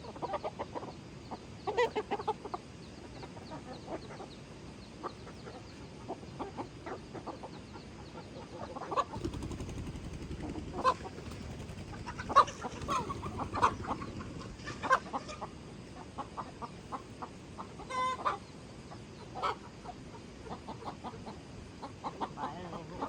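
Chickens clucking in a scatter of short calls, busiest and loudest about halfway through. A dull low noise runs under the calls for several seconds in the middle.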